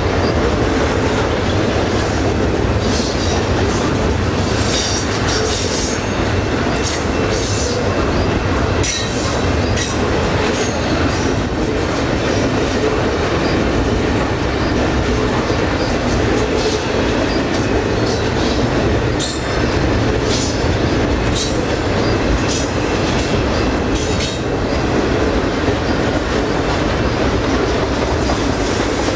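Double-stack intermodal container train rolling past at close range: a loud, steady rumble of steel wheels on rail, broken by frequent irregular clicks and clanks as the well cars' trucks go by.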